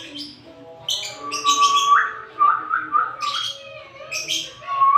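African lovebirds chirping in sharp, shrill bursts, with a lower whistled note repeated several times from about two seconds in and once more near the end.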